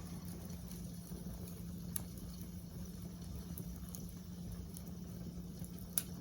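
Wood campfire burning with a low steady rumble and hiss, and two sharp crackling pops, a small one about two seconds in and a louder one near the end.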